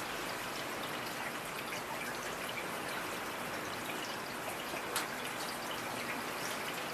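Steady rain falling, a constant hiss scattered with small ticks of individual drops, with one sharper drop about five seconds in.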